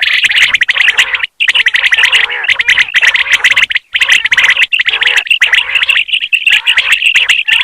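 Dense chorus of common quail calls, many birds calling over one another in rapid chirps and clicks. It cuts out completely twice for a moment.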